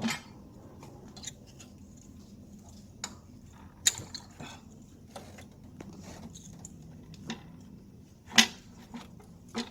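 Scattered clicks and knocks of hands and tools handling parts in a car's engine bay, the loudest knock a little past the middle, over a faint steady low hum.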